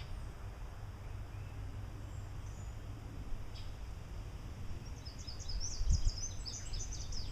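A songbird chirping in a quick run of short high notes, starting about five seconds in, over a steady low outdoor rumble; a brief low thump just before the end.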